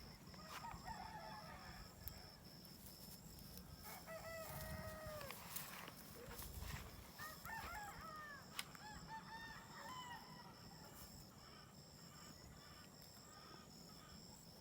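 Rooster crowing faintly about four seconds in, followed by shorter chicken calls.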